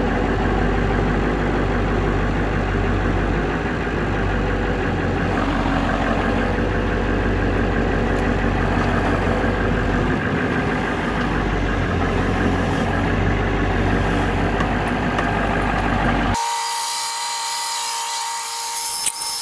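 Steady low mechanical drone of a running motor. About 16 seconds in it gives way abruptly to a hiss with a thin steady whine.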